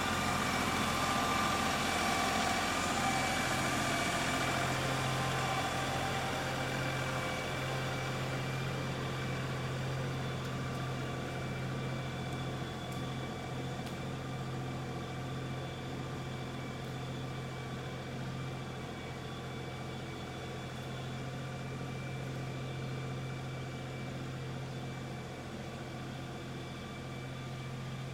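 LS compact tractor's diesel engine running steadily at low speed, slowly growing a little quieter.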